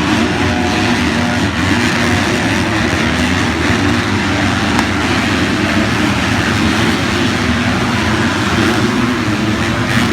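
Several motocross bikes racing, their engines revving and overlapping in a steady, loud din.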